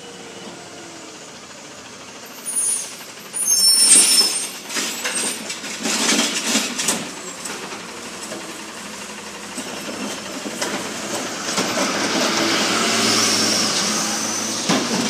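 Recycling garbage truck at work: a high squeal and hiss from its brakes about three seconds in, then clattering and banging, and the truck's noise swelling over the last several seconds.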